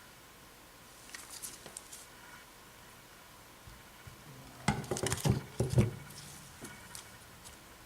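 Carburettor parts and a gasket handled on a workbench: faint light clicks, then a short cluster of sharp knocks and clatter about five seconds in.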